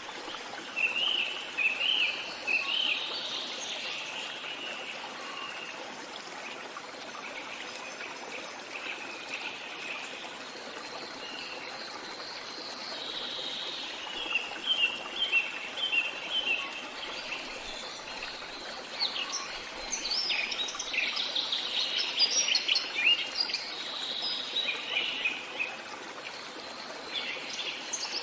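Small birds chirping and singing in quick bouts over the steady rush of a running stream; the birdsong is busiest in the second half.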